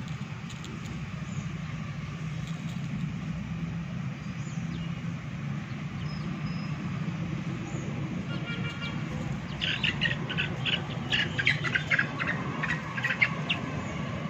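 A steady low hum throughout, with small birds chirping in quick high calls from about eight seconds in.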